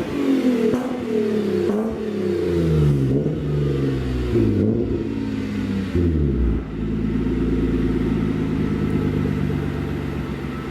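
BMW E30 with an E36's M50 straight-six, running through a custom-made dual-outlet exhaust, revved several times with the revs falling back after each, then settling into a steady idle about six and a half seconds in.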